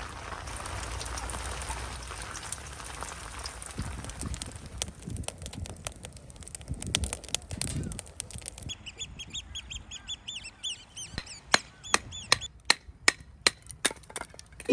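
Wind and rain noise, then a bird calling in a quick run of short, rising-and-falling cries for about two seconds, followed by a string of sharp taps.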